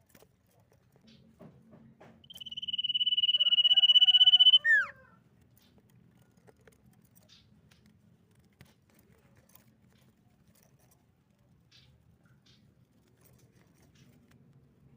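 Common iora singing one long, steady whistle that swells in loudness for about two seconds and ends in a short, steeply falling note.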